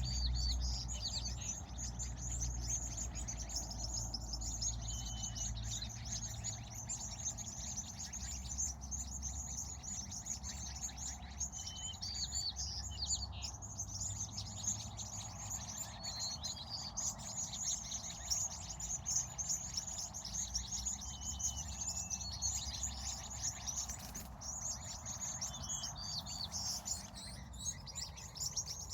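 Many small birds chirping continuously, with short whistled calls repeating every few seconds, over a low steady rumble.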